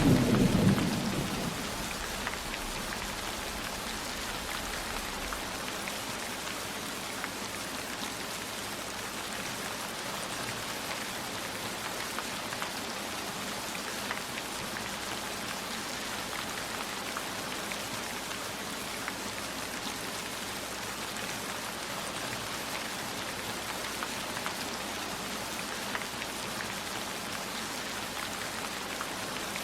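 Steady rain falling, an even hiss with scattered drops ticking. A low thunder rumble fades out in the first second or two.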